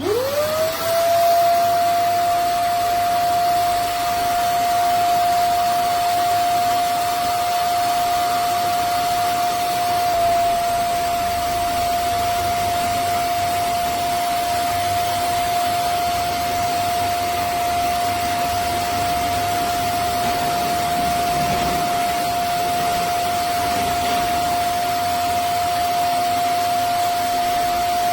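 Vacmaster SCA0801 carpet spot cleaner's suction motor switching on, its whine rising to a steady pitch within about a second, then running steadily with a rush of air as it wet-cleans a rug.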